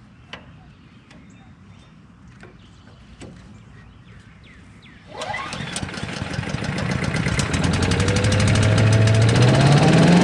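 A few light clicks over quiet, then about five seconds in a small petrol engine starts and revs up, its pitch rising steadily and running loud by the end.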